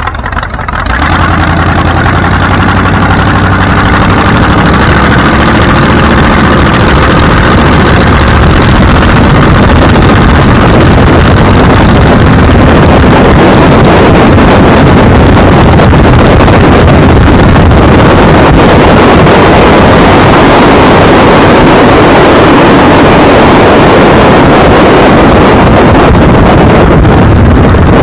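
A vehicle engine picks up about a second in and climbs steadily in pitch for several seconds as it gathers speed. Then loud, steady wind rush on the microphone takes over at speed.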